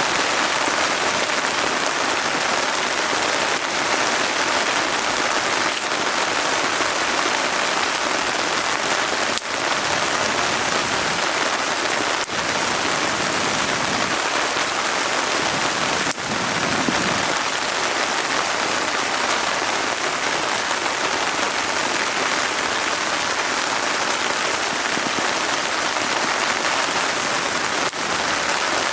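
Steady rain falling: a dense, even hiss of drops.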